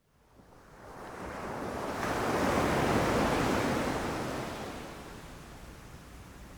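Ocean waves breaking on a beach: the surf fades in, swells to a peak about three seconds in as a wave crashes, then washes back and ebbs, with some wind on the microphone.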